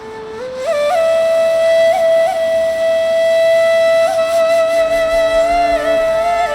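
Flute music: the flute climbs through a few notes in the first second, then holds one long note decorated with quick grace-note turns.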